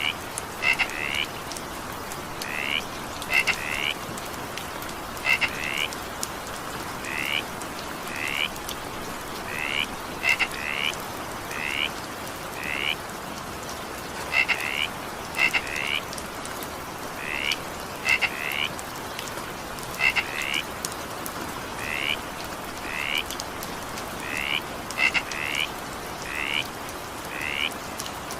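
Frogs calling over steady rain: short, high croaks, often in quick pairs, repeating about every second.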